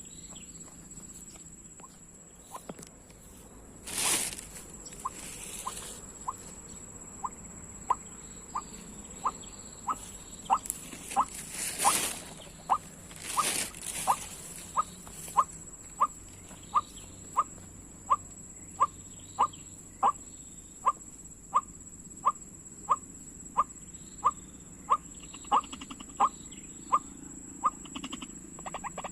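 White-breasted waterhen call: a long series of short rising notes, about one and a half a second, over a steady high-pitched insect drone. There are a few loud rustling bursts a few seconds in and around the middle.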